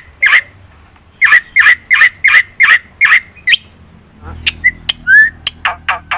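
Black-winged myna (jalak putih) singing: a run of harsh, repeated notes about three a second, then a short rising whistle about five seconds in, followed by a quick series of sharp clicking notes.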